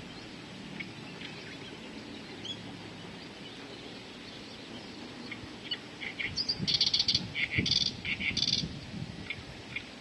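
A bird singing: faint scattered chirps, then a loud run of rapid repeated notes from about six to nine seconds in.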